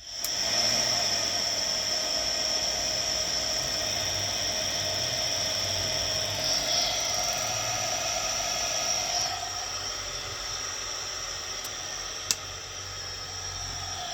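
Combi boiler fan motor of a Buderus GB062 starting up and running with a steady high-pitched whine over a lower hum. A single sharp click comes about twelve seconds in.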